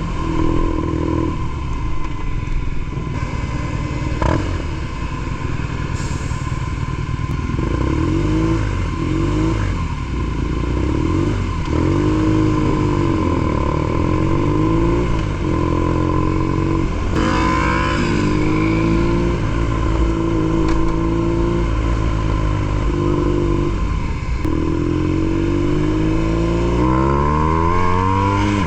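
BMW R nineT Pure's air/oil-cooled boxer twin on a ZARD aftermarket exhaust, accelerating and easing off in city riding. The engine pitch climbs and drops back several times as it works through gears.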